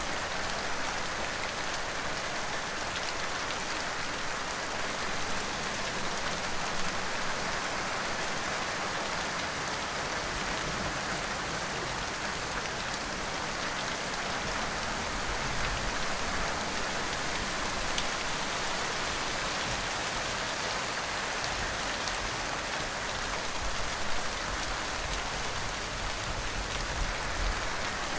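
Steady rain falling, an even hiss of many drops that never lets up.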